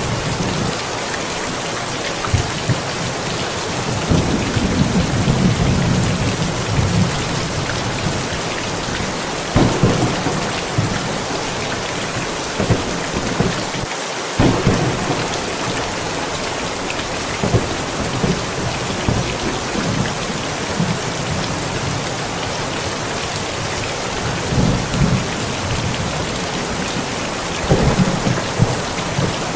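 Steady heavy rain falling on surfaces, with thunder rumbling several times: a longer low roll a few seconds in, and sharper claps about ten seconds in, near the middle and near the end.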